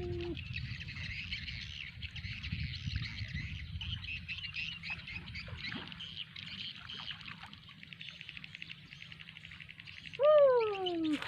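Steady, dense chirping of birds and insects in the background. About ten seconds in, one loud call glides downward in pitch for about a second.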